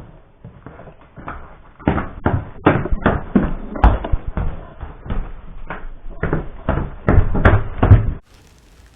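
Footsteps thudding in a steady run of about three steps a second, which cut off suddenly near the end.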